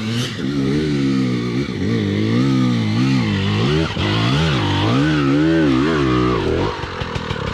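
Two-stroke dirt bike engine revving hard on a hill climb, its pitch rising and falling again and again as the throttle is worked. Near the end the revs drop to a low, uneven run with a rapid popping as the throttle is closed.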